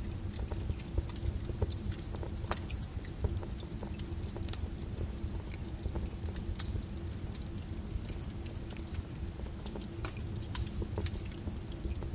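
Wood fire burning in a fireplace, crackling and popping irregularly over a low steady rumble of the flames, with a sharp louder pop about ten and a half seconds in.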